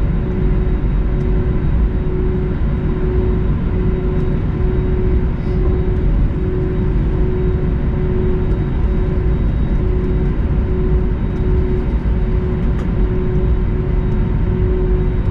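Airbus A320neo cabin noise on the ground: a steady low rumble with a constant hum from the engines at idle.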